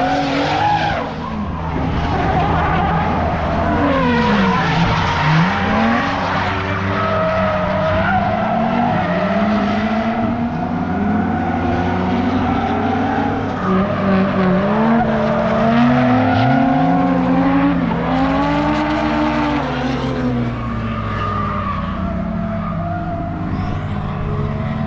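Drift cars on track, engines revving up and falling back repeatedly as they slide, with tyre squeal and skidding; several engines overlap.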